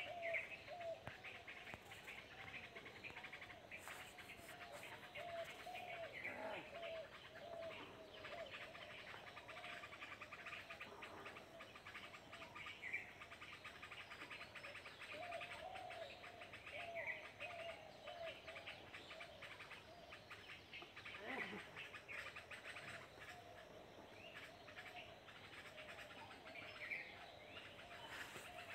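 Birds chirping and calling: runs of short, wavering low calls recur throughout, with brief higher chirps scattered over them.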